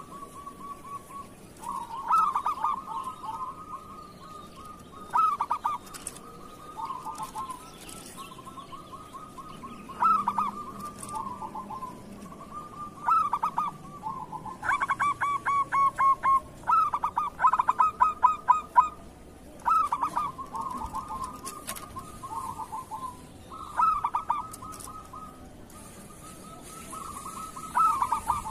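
Zebra dove (perkutut) cooing: short phrases of quick stuttering coos, repeated every couple of seconds, with a faster run of pulsed notes about halfway through.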